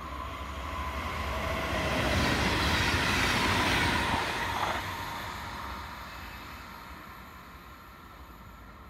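Electric train passing by: it grows louder to a peak about two to four seconds in, then fades away. A whistling tone drops in pitch as it goes past.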